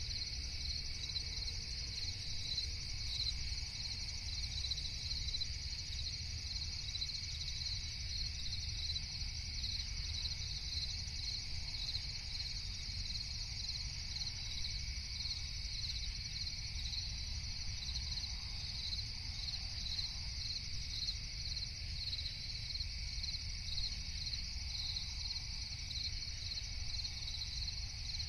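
Crickets chirping in a steady, continuous night chorus with a regular pulsing trill, over a low constant rumble.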